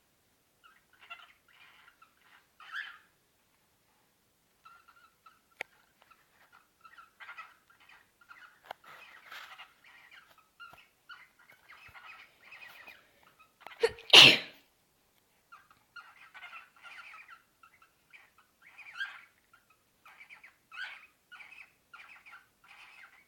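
Small birds chattering during mating, in short repeated bursts of twittering calls. About 14 seconds in there is one loud, sharp burst.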